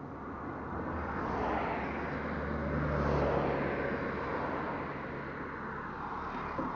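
A motor vehicle passing by, its engine and road noise swelling to a peak about three seconds in and then fading.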